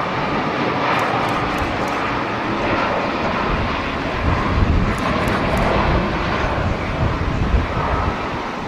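Jet airliner engines running, a steady loud rush, with strong wind gusting on the microphone as an uneven low rumble.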